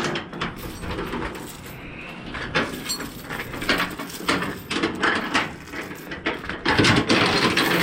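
Irregular knocks, clanks and rubbing from a cargo strap and its hardware being worked around a flatbed trailer's stake pocket while securing the load, growing louder near the end.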